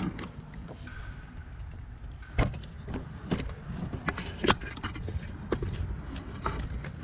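Irregular metallic clicks and knocks of a socket wrench on extensions, tightening the 7 mm bolt that holds down an ignition coil. The two loudest knocks come about two and a half and four and a half seconds in, over a steady low rumble.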